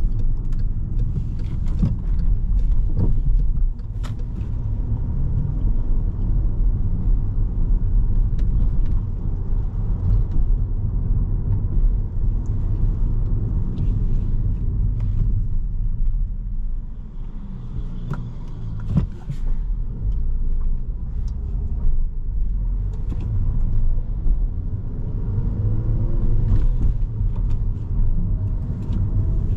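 2017 Volkswagen Jetta's 1.4-litre turbocharged four-cylinder engine and road noise heard from inside the cabin as the car drives onto the highway: a steady low rumble that dips briefly twice, with scattered light clicks.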